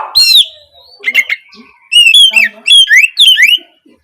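Oriental magpie-robin singing: quick, varied whistled notes that sweep up and down, delivered in short loud phrases with brief pauses.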